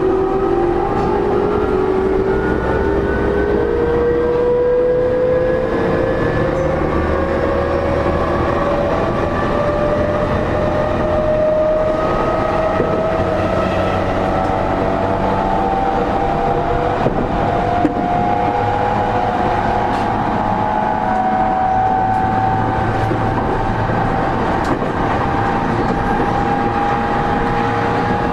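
E231-series electric train heard from inside a motor car: the traction motors' inverter whine rises steadily in pitch as the train accelerates, then levels off at speed, over the running rumble of wheels on rail with a few short clicks from the track.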